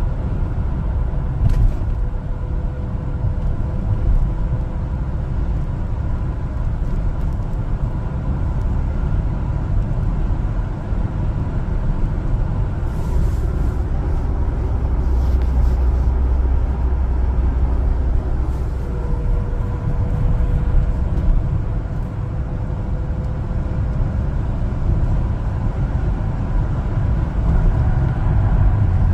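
A 1-ton LPG cargo truck driving, a steady low rumble of engine and road noise.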